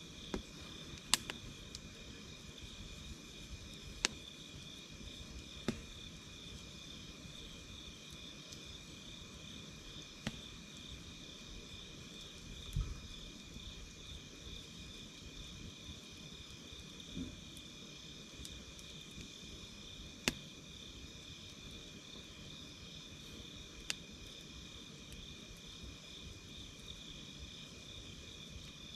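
Night insects such as crickets calling without a break, one as a steady high trill and another in a fast pulsing chirp, while a wood campfire crackles with about half a dozen sharp pops spread through the stretch.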